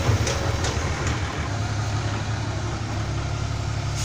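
Heavy diesel engine idling with a low, even drone, and a few faint clicks in the first second.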